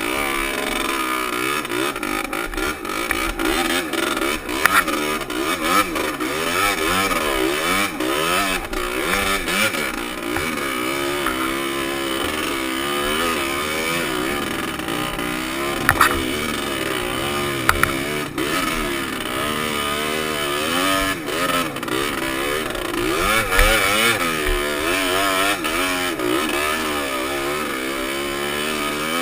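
Dirt bike engine heard through a helmet-mounted camera, its pitch rising and falling over and over as the rider works the throttle along a trail. There are a few sharp knocks and clatters along the way.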